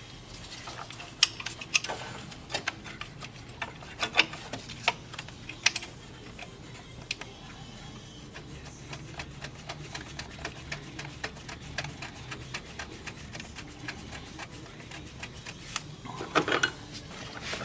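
Irregular sharp clicks and light clinks, with a few louder ones, over a faint steady low hum.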